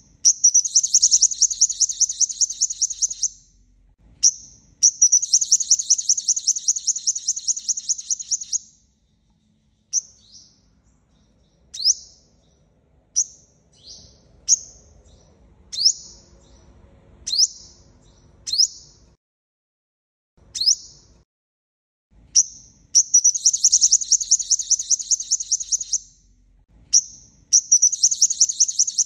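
Sunbird ('hút mật 5 màu') song played as a lure call: fast, loud trills of sharp high notes, each lasting two to four seconds. A run of single down-slurred chip notes about a second apart comes in the middle, then the trills start again near the end.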